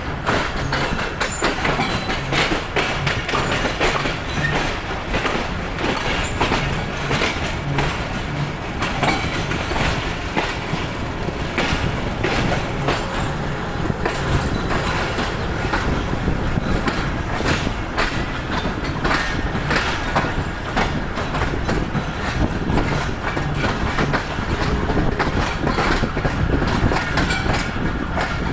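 Pakistan Railways passenger coach rolling out of the station, heard from its open door: wheels clacking irregularly over rail joints and pointwork over the steady rumble and rattle of the running gear.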